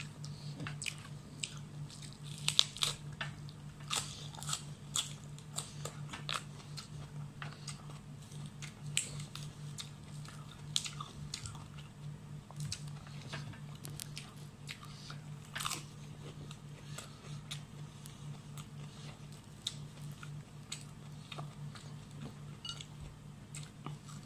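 Close-up eating sounds: a person biting and chewing crunchy food, with many short crisp crunches and mouth clicks that thin out in the second half. A steady low hum runs underneath.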